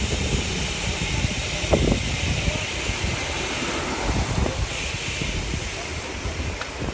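Wind rushing and buffeting over the microphone while riding a bicycle: a steady hiss with a fluttering low rumble.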